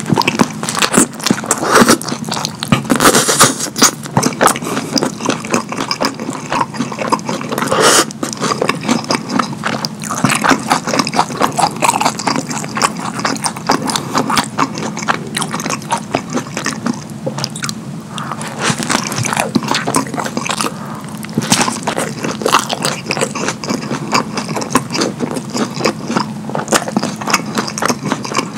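Close-miked, messy mouth eating: wet, irregular chewing and lip smacking on a soft burger bun smothered in creamy sauce, with short pauses between bites. A steady low hum sits underneath.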